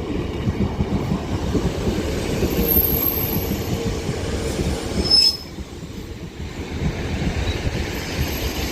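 A Northern Class 156 diesel multiple unit coupled to a Class 150 arriving at the platform: a steady rumble of wheels and engines with a brief high squeal about five seconds in, after which the rumble is quieter.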